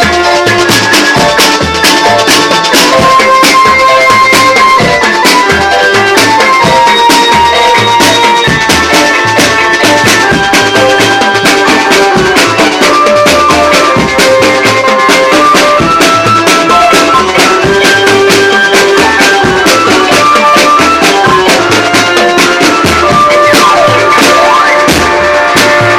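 Dangdut band playing loudly through a sound system: held melody notes over a repeating bass beat and busy drum and percussion strikes.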